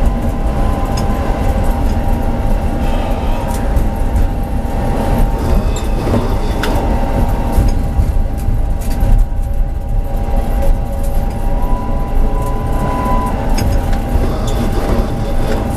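Tram running along its line, heard from the driver's cab: a steady low rumble of wheels on rail with a steady whine over it and a few scattered clicks.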